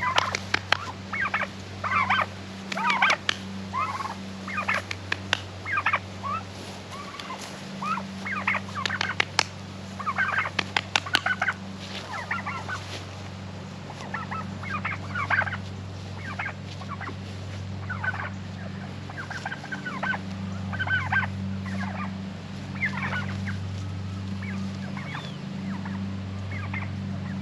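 Turkeys calling: a steady run of short, repeated calls, thickest in the first half and thinning out later. A steady low hum runs underneath.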